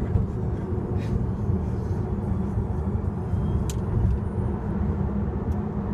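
Steady low rumble of road and tyre noise inside the cabin of a moving Tesla Model S dual-motor electric car.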